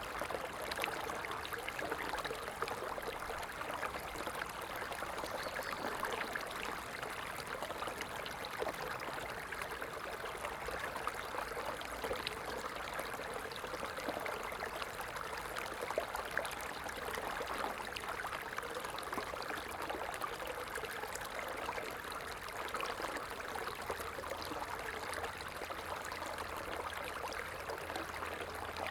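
A stream running steadily over stones, a continuous babbling with many small trickles and splashes.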